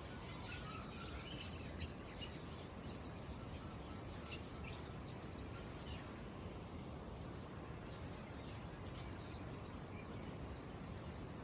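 Many caged songbirds chirping and twittering at once, short overlapping calls, over a steady high-pitched chirring and a low background rumble.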